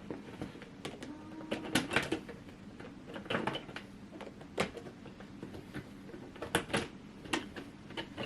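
Clear hard-plastic panels of a folding shoe storage box clacking and snapping into place as its door is fitted: a scattered series of sharp clicks and knocks.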